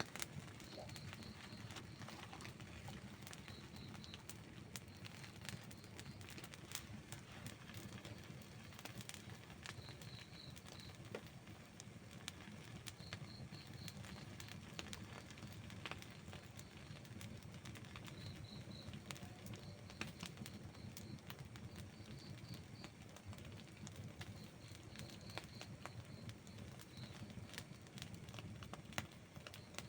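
Burning wood in a campfire crackling, with frequent small sharp pops over a low steady rumble. Short high chirping trills sound faintly every few seconds.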